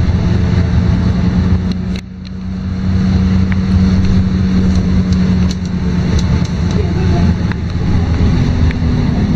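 LiAZ-5292.22 city bus's diesel engine running under way, heard from inside the passenger cabin. The drone dips sharply about two seconds in and builds back over the next second, then runs on steadily.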